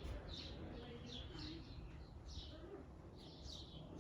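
Small birds chirping in a quick string of short, high notes that fall in pitch, about two to three a second.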